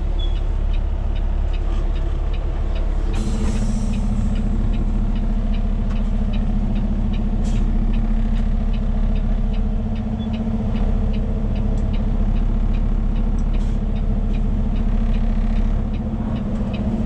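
Heavy rotator tow truck's diesel engine running, heard from the cab as it pulls away, its drone settling into a steadier, higher tone after a short hiss of air about three seconds in, typical of air brakes releasing. A turn signal ticks evenly throughout.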